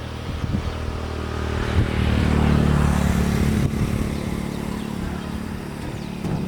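A motor engine running, growing louder about two seconds in and then easing off again.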